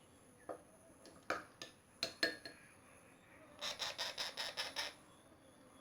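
A small spoon clicks against a bowl a few times. Then, from about three and a half seconds in, a baby parrot gives a quick run of high, rapid begging chirps, about seven a second, as it takes formula from the spoon.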